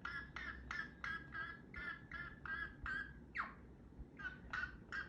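A pet parrot chattering to itself in a fast run of short, repeated pitched calls, about three a second. A little after three seconds one call falls in pitch, there is a brief pause, and then the run goes on.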